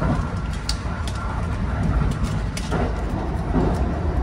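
Steady low rumble of the Kintetsu Hinotori express train running, heard from inside the carriage, with a few light clicks over it.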